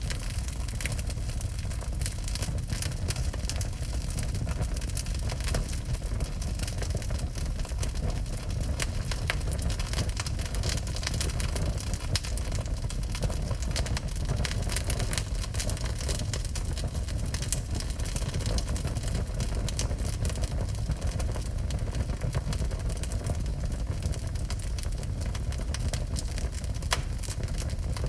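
Wood fire burning in a fireplace: a steady low rumble with frequent small sharp crackles and pops throughout.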